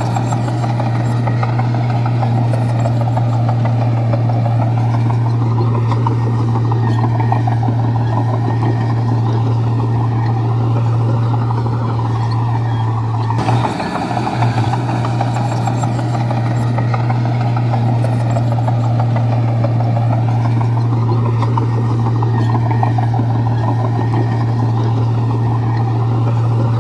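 Bulldozer's diesel engine running steadily under load, a deep constant drone with a slowly wavering tone above it. About 13 seconds in there is a brief break, after which the same sound repeats.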